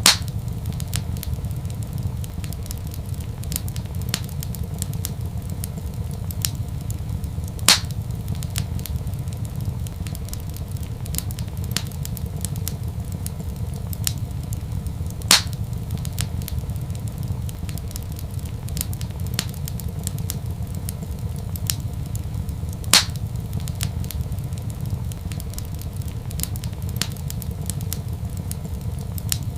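Wood fire in a fireplace crackling over a steady low rumble, with a loud sharp pop at even intervals, about every seven and a half seconds.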